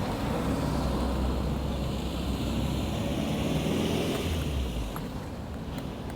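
Honda CB500X's parallel-twin engine running on the move, with wind noise on the microphone. The engine note eases and gets a little quieter about five seconds in.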